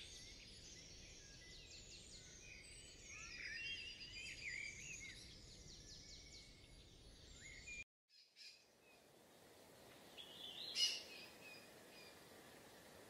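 Faint birdsong over a soft outdoor hiss: several short, chirping bird calls overlap. The sound drops out briefly about eight seconds in. After that the hiss is quieter, with a single short bird call near eleven seconds.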